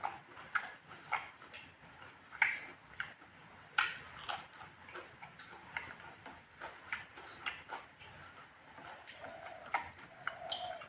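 A person eating close to the microphone, irregular wet smacks and clicks of chewing and lip-smacking a few times a second.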